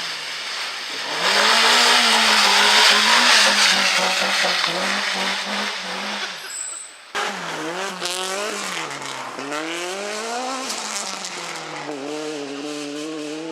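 Rally cars driven hard on a stage. In the first part an engine runs at high revs under a loud burst of tyre and road noise with some squeal. After a cut about seven seconds in, another rally car's engine revs up and drops back several times through gear changes, then holds a steadier note near the end.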